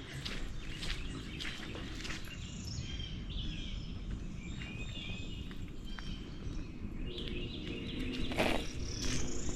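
Several songbirds chirping and trilling, over a steady low background rumble, with a few footsteps in the first couple of seconds.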